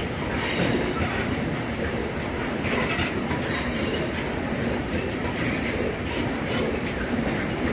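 Heavy freight train of loaded open coal wagons rolling past, its wheels rumbling and clacking steadily over the rails, with brief high wheel squeals now and then.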